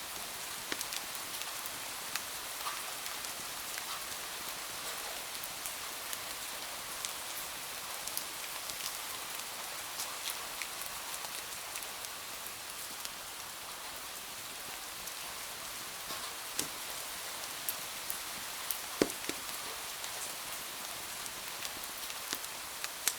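Steady rain hiss with scattered sharp ticks and pops, as from a crackling wood fire; one louder snap about 19 seconds in.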